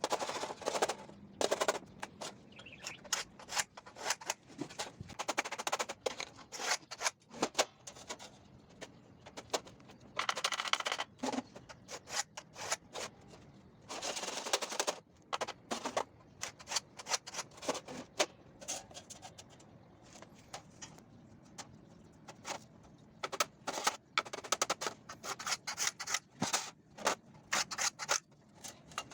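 Steel scriber scratching lines into a sheet-metal floor pan, with irregular clicks and taps as the tools and straightedge are set down and moved. Some scratchy strokes last about a second.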